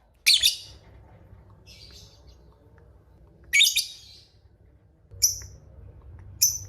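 Lovebird giving shrill, high chirping calls in short bursts, about five in all, some in quick double notes, the last two brief.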